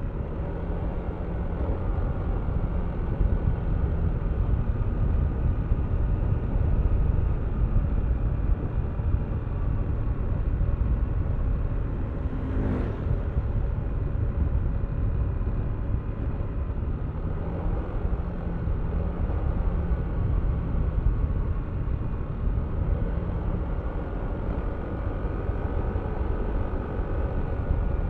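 Yamaha Aerox V3 scooter's single-cylinder engine running at a steady road speed, with heavy wind rumble on the mic. A brief sharp click sounds about halfway through.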